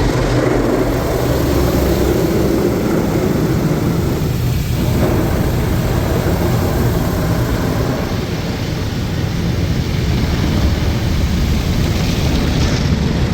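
Rotating brushes of a WashTec SoftLine 2 tunnel car wash scrubbing over the car amid water spray, heard from inside the cabin as a loud, steady noise with a brief dip about four and a half seconds in.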